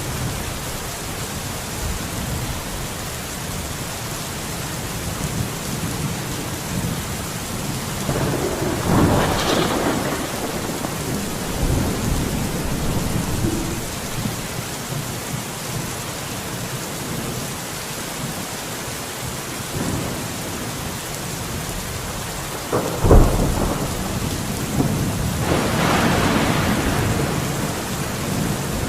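Steady rain, with two longer swells of louder sound and a sharp crack about two-thirds of the way through.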